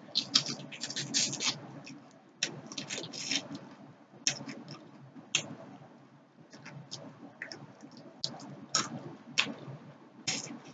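Close-miked crunching as a person bites into and chews crispy fried tilapia. A dense run of sharp crunches at the first bite, another run a couple of seconds later, then single crunches spaced out, over soft chewing.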